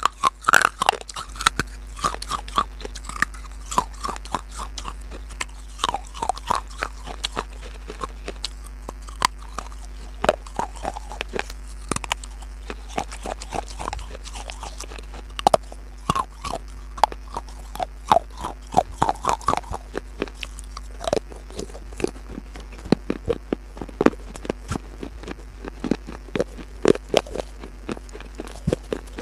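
Close-miked chewing and biting of crunchy food: a dense, irregular run of sharp crunches over a faint steady low hum.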